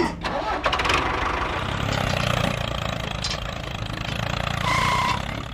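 An engine starting and then running steadily. A short two-note tone sounds near the end.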